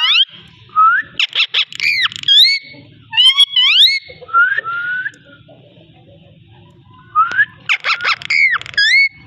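Ringneck parakeet whistling and chirping in quick rising glides, in two bursts with a pause of about two seconds between them.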